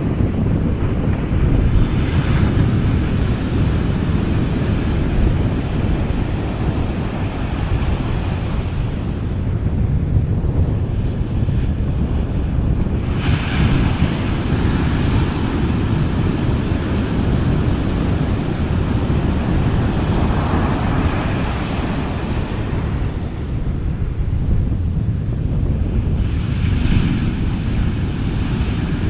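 Gentle sea waves washing onto a beach, four soft hissing washes that swell and fade, over a steady low rumble of wind on the microphone.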